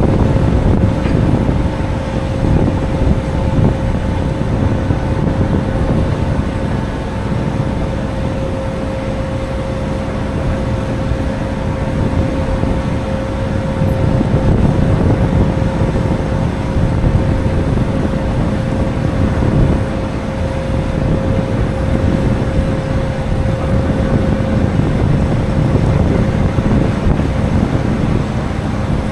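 A heavy vehicle's engine running steadily: a low rumble with a constant hum over it.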